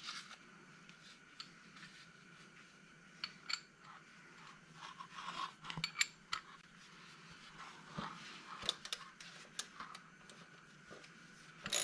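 Faint, scattered clicks and clinks of metal hand tools and parts being handled, with a few light scrapes. This is the work of threading a lawnmower's oil drain plug back in.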